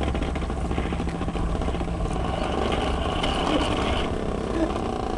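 Toy bubble lawnmower being pushed along, its plastic wheels and mechanism rattling and ticking steadily, with a faint motor whine in the middle. A low rumble fades out about a second in.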